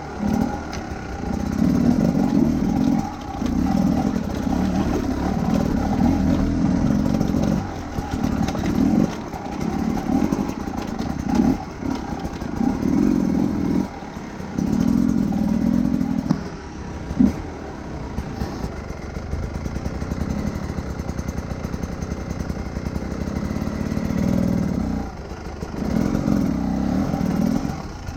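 Large adventure motorcycle's engine running under load, rising in bursts of a second or two with short dips between them as the throttle opens and closes. A single sharp knock about two-thirds of the way through.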